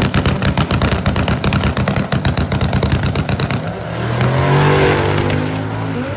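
Drag racing car engine held against a rev limiter at the line, popping and crackling rapidly at about ten pops a second. About four seconds in the engine note climbs in pitch as the car launches, then fades.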